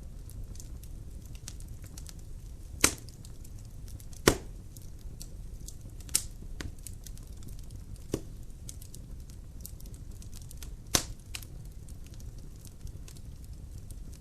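Logs burning in a fireplace, crackling: about five sharp loud pops and many faint ticks over a steady low rumble of the fire.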